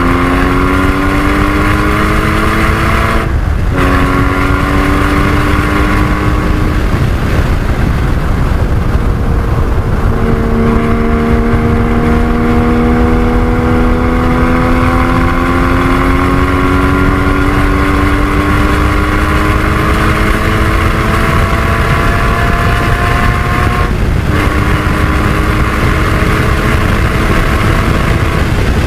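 Porsche 981 Cayman GT4's 3.8-litre flat-six engine pulling hard around a race track, its pitch climbing steadily through the gears. It upshifts with a brief cut about three seconds in and again near the end, and drops in pitch, braking and downshifting, from about seven to ten seconds in, over a steady rumble of road and wind noise.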